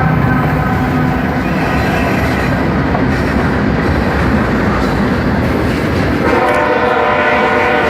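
Norfolk Southern diesel-led freight train passing with a steady rumble. About six seconds in, the locomotive's horn starts sounding a steady multi-note chord.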